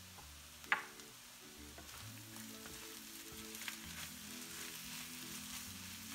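Corned beef and diced potatoes sizzling as they fry in a pan, the sizzle growing a little after the first couple of seconds. A sharp clack of a utensil on the pan a little under a second in, and a few lighter taps later, as the food is stirred.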